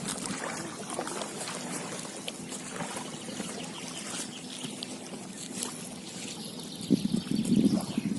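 Small river's water running and trickling, with scattered faint clicks; near the end a louder low rustling.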